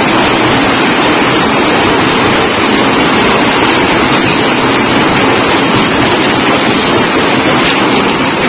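Heavy thunderstorm downpour: rain and wind making a loud, steady rushing noise with no breaks.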